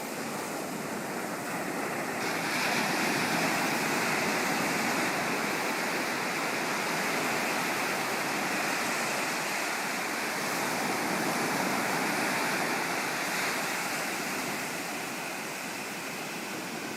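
Sea surf: waves breaking and washing up the beach in a steady rush, swelling about two seconds in and easing slightly near the end.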